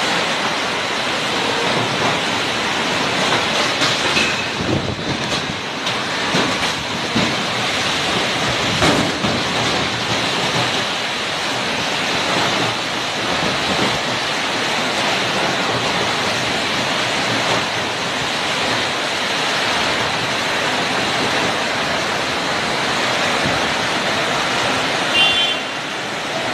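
Heavy rain pouring down steadily in strong wind, with a few louder gusts in the first ten seconds. A brief high tone sounds near the end.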